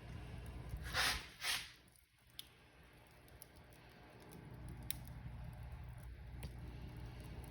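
Wood fire burning in a fireplace: a low steady rumble with scattered crackles and pops. About a second in come two loud hissing bursts, half a second apart. The fire then goes quieter for a couple of seconds before the rumble and crackling build back.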